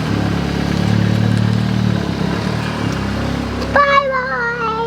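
Car engine running at low speed with a steady hum that eases off about two seconds in. Near the end a high-pitched voice calls out.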